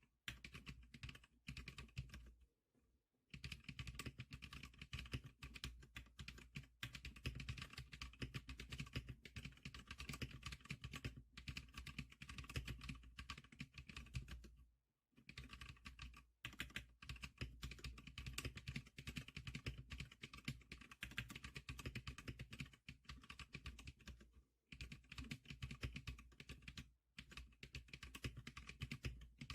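Zikliker SPK100 keyboard being typed on rapidly: a dense run of keystrokes with a few brief pauses, as a demonstration of its typing sound.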